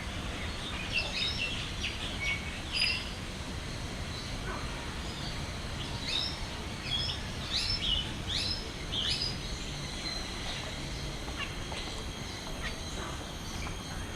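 Mixed birds calling in a walk-in aviary: many short chirps and quick falling whistles, busiest in two spells in the first and middle parts, over a steady low hum of background noise.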